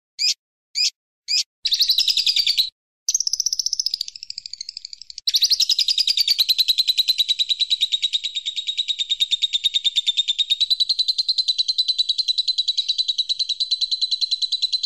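Birdsong: a few short, high chirps, then a long, fast trill of high notes that runs unbroken for the second half.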